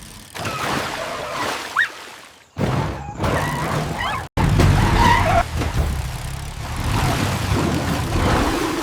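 Racing-vehicle sound effects for animated bikes, a motorbike and a jeep: engine rumble with noisy mud and splash sounds, broken by sudden cuts about two and a half seconds in and again just past four seconds.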